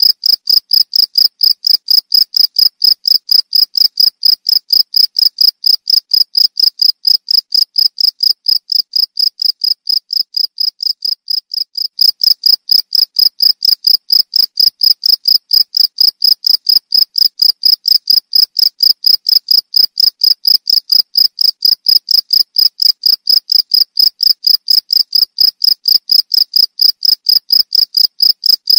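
Cricket chirping: a high-pitched, evenly spaced chirp repeated several times a second without a break, slightly softer for a few seconds around the middle.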